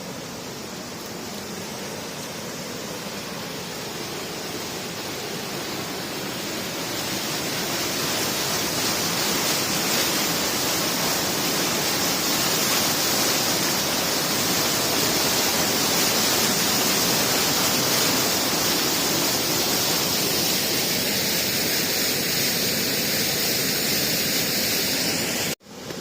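Steady rushing noise, growing louder over the first several seconds, then cutting off suddenly near the end.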